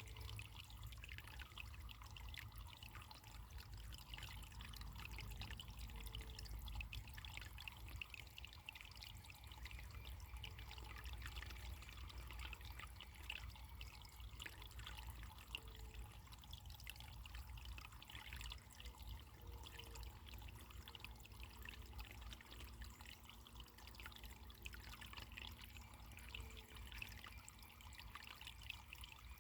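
Running water trickling and splashing steadily, like a small stream, over a faint low rumble.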